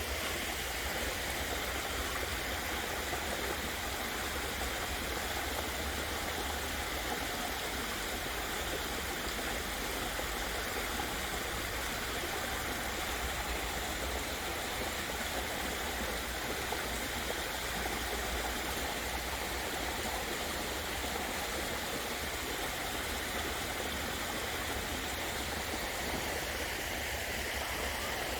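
Small waterfall, water pouring and splashing in a steady, unbroken rush, with a low rumble underneath.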